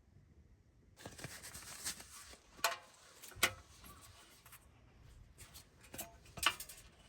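Rustling handling noise that starts about a second in, with four sharp clicks or knocks of small objects.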